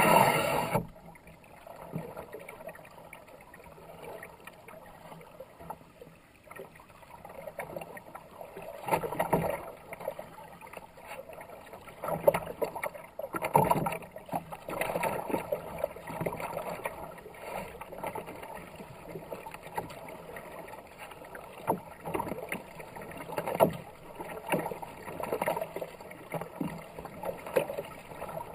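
Kayak paddle strokes dipping and splashing in a fast-flowing river, swelling every second or two, with a loud burst of noise right at the start.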